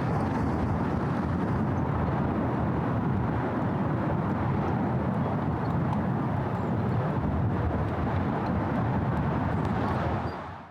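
Steady rumble of city traffic, a dense low noise without distinct events, fading out quickly near the end.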